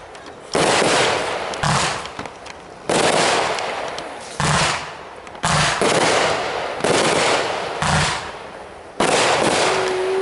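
Aerial fireworks going off in quick succession: about eight sharp bangs, roughly one a second, each trailing off in a fading hiss, some with a low thump.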